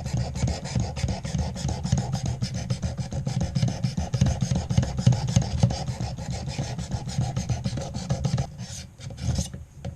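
A 220-grit sharpening stone on a clamp-guided knife sharpener, rubbed in rapid back-and-forth strokes along a knife blade: a steady gritty rasping. The strokes stop about eight and a half seconds in.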